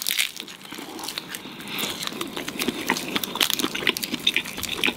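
Chewing a mouthful of salmon teriyaki onigiri, a rice ball wrapped in nori seaweed, with many small clicks and crackles from the mouth.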